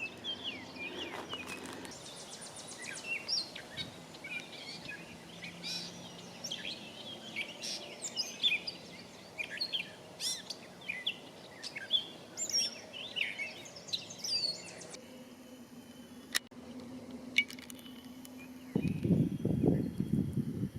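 Wild songbirds calling and chirping in the woods, many short calls overlapping over a quiet background. A single sharp click comes partway through, and near the end there is a burst of rustling.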